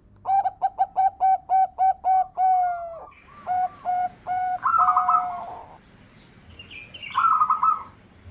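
Zebra dove (perkutut) cooing: a quick run of about nine short, evenly spaced coos. Then a few more coos and two higher trilled phrases, one about halfway through and one near the end.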